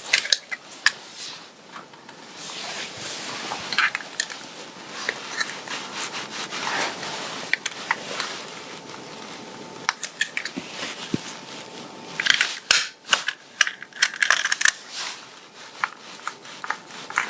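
Sticky lint roller rolled over the fabric of a garment, giving a crackling hiss for several seconds. Later comes a denser run of sharp crackles and clicks.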